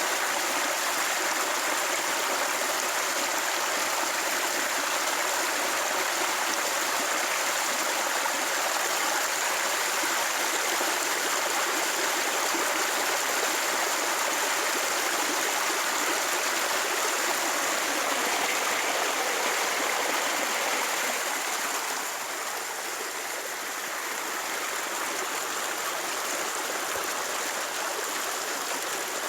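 Steady rushing of running water, a little quieter from about three-quarters of the way through.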